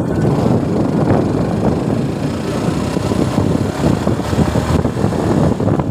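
Suzuki Gixxer motorcycle's single-cylinder engine running as it is ridden: a steady, dense low rumble.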